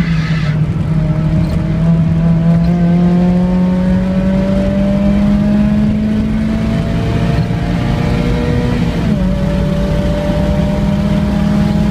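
A Mazda Miata's four-cylinder engine accelerates hard, its note climbing slowly, then dips briefly about nine seconds in as it shifts up and pulls on. A steady rush of road and wind noise runs underneath.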